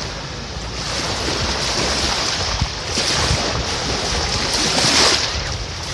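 Sea surf washing up the sand, one wave swelling to a peak near the end, with wind buffeting the microphone as a low rumble.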